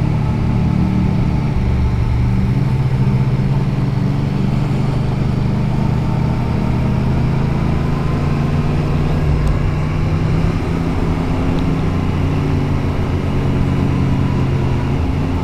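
Motorcycle engine pulling steadily in low gear on a steep climb, its pitch shifting only slightly, with wind rumble on a helmet-mounted microphone.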